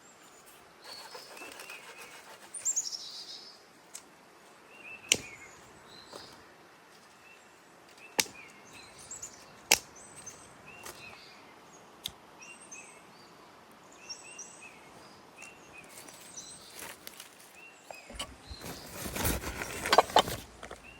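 Small birds chirping now and then in a forest, with a few sharp single clicks spread through the middle. Near the end comes a louder stretch of rustling and crunching close by, like someone moving through undergrowth.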